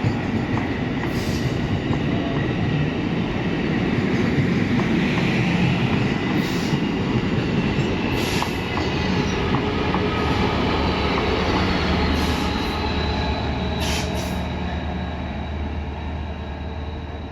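Railroad cars rolling past at track side: a steady rumble of wheels on rail, with a faint high wheel squeal and a few sharp clicks. It eases off near the end.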